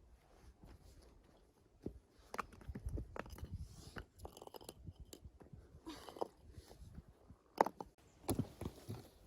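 Scattered soft knocks, scrapes and crunchy rustles of camping gear being handled on rocky ground, with one sharper knock about three-quarters of the way in.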